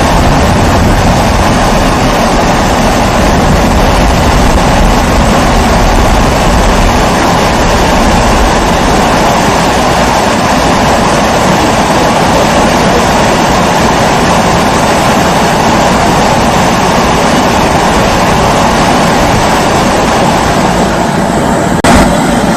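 Pressurised kerosene (primus) stove burner giving its steady rushing hum as it burns. One short sharp click near the end.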